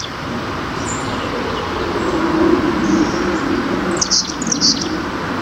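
Carolina chickadee giving its short, high call notes: a few thin single notes, then a quick cluster of three or four about four seconds in. A steady low rumble runs underneath.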